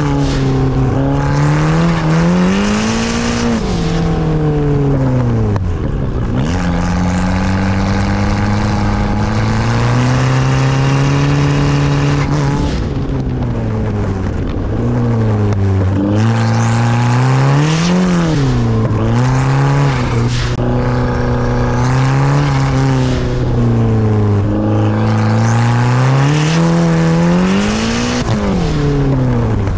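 Engine of a big-turbo 2012 Kia Optima SX (turbocharged 2.0-litre four-cylinder with a 20G turbo at 27 psi, on 93 octane plus methanol), driven hard. The revs climb under throttle and drop away again every few seconds, with a hiss over the engine note.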